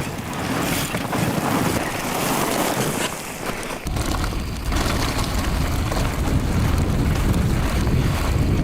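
Rushing wind noise over the microphone: a steady, loud rush that turns deeper and rougher about four seconds in.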